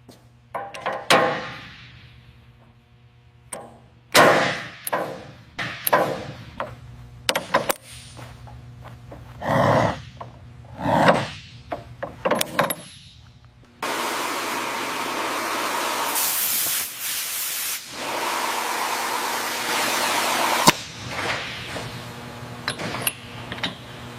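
Workshop sounds: a run of separate knocks, clunks and clicks, then, a little past halfway, a steady hiss like an air or spray blast for about seven seconds, followed by a few more clicks.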